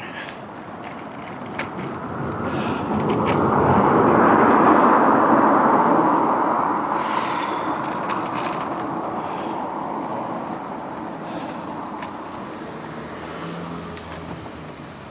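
A motor vehicle going past, its tyre and road noise swelling to a peak about four seconds in and then slowly fading away, with a few light clicks.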